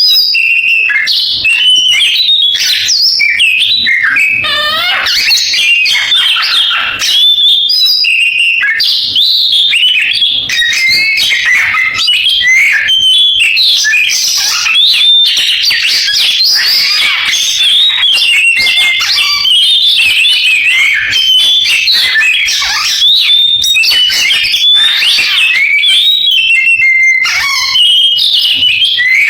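Oriental magpie-robin (kacer) singing a loud, continuous song of fast, varied whistles and trills, with no pause.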